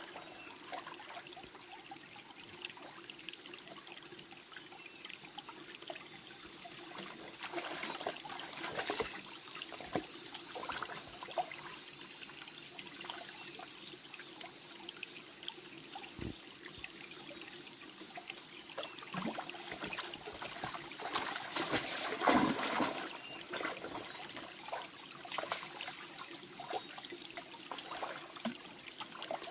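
Water trickling steadily, with scattered small clicks and knocks throughout and a louder cluster of clatter about three quarters of the way through.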